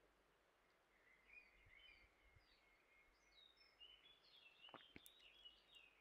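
Near silence with faint bird chirping: a chain of high twittering calls starting about a second in and growing busier toward the end. Two faint clicks come just before the five-second mark.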